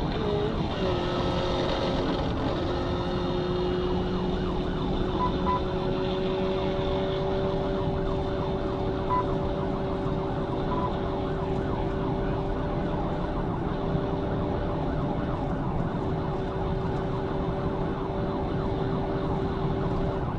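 Police cruiser driving at speed in a pursuit, its siren sounding over steady engine and road noise.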